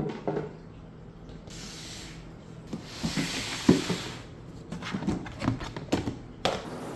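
A hiss of spray, starting about a second and a half in and coming in two spells of a second or two, with light knocks and rubbing of things being handled around it.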